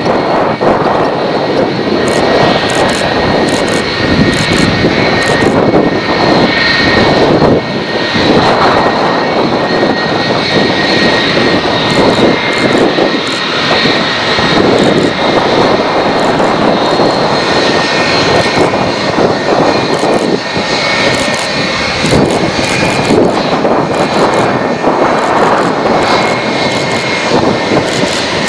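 Boeing 757-200 jet engines at takeoff power: a loud, crackling rumble with a steady high whine over it.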